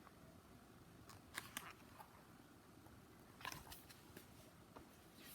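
Near silence: quiet room tone with a few faint, brief clicks and rustles, about a second in and again past the middle.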